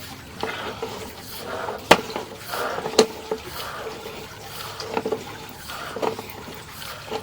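Water trickling and gurgling inside an ABS sewer line, picked up by a push-cable inspection camera as it travels through the pipe. Sharp knocks stand out, two loud ones about two and three seconds in and fainter ones later, as the camera head bumps along the pipe.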